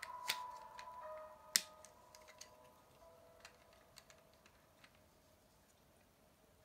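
Lego bricks being handled and sorted: scattered sharp plastic clicks, several in the first two seconds, then only a few.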